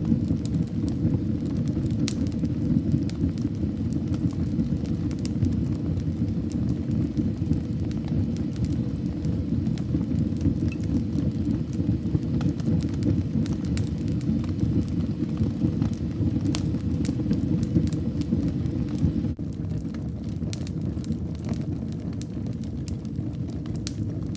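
Fire burning in a fireplace: a steady low rumble of flames with frequent crackles and pops. It turns a little quieter about three-quarters of the way through.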